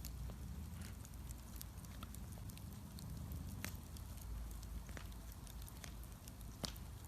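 Wood bonfire burning with a steady low rumble and scattered sharp crackles and pops, a few seconds apart; the loudest pop comes near the end.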